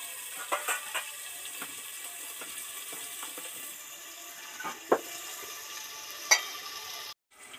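Green jackfruit pieces frying in hot oil in a lidded wok, with a steady sizzle. A few sharp clicks cut through it, and the sound drops out briefly just before the end.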